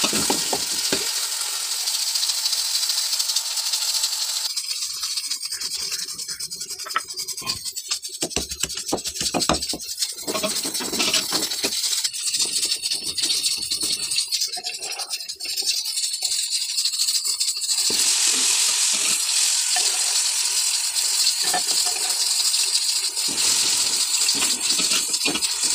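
Sliced onions frying in hot oil in a metal pot, sizzling steadily, while a metal slotted spatula scrapes and knocks against the pot as they are stirred.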